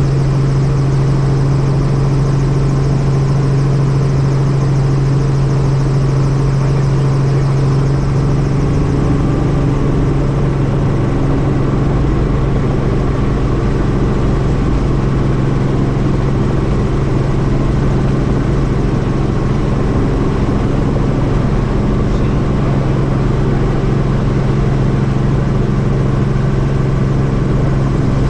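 Helicopter engine and rotor running steadily, a constant low drone.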